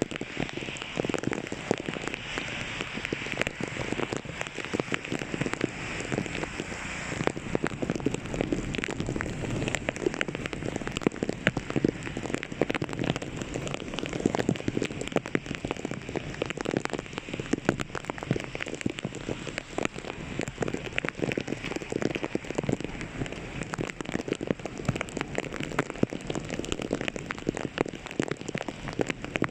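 Heavy rain falling steadily, a dense patter of drops striking the surface.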